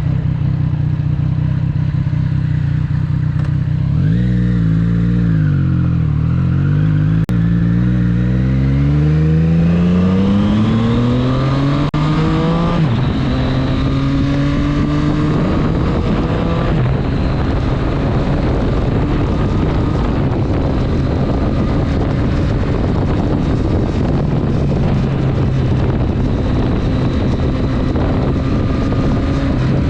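Triumph Street Triple 765 S inline three-cylinder engine running at steady revs, then pulling hard with the revs climbing for several seconds. After a gear change about twelve seconds in, it climbs again briefly and settles to a steady cruise with wind and road noise.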